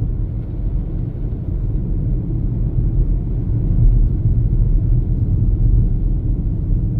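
Steady low rumble of a car driving on a snow-covered highway: engine and tyre noise heard from inside the cabin.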